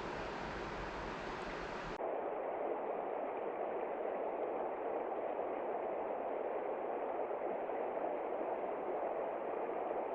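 Steady rushing noise with no distinct sounds in it; about two seconds in it switches abruptly to a duller, mid-pitched rush.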